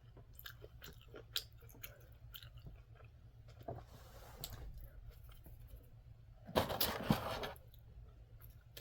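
A person chewing food close to the microphone, with soft mouth clicks and small crunches. About six and a half seconds in, a louder noisy burst lasts about a second.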